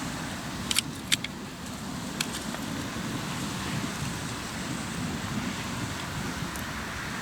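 Hardwood campfire crackling, with a few sharp pops in the first couple of seconds, over a steady low rumble of waves breaking on the shore.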